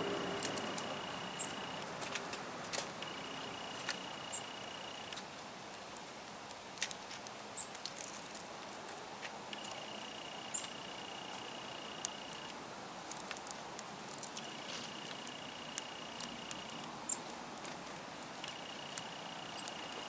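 Faint outdoor ambience with small birds giving short, thin, high call notes every second or two, over scattered light clicks and taps. A steady high whine comes and goes in stretches of two or three seconds.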